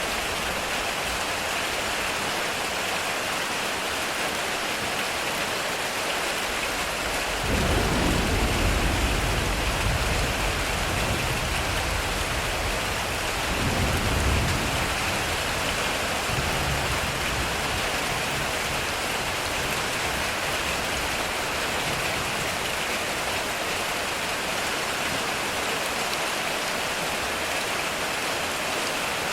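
Heavy rain drumming steadily on a metal roof. Thunder rumbles in suddenly about seven seconds in for a couple of seconds, then rumbles again, shorter, about halfway through.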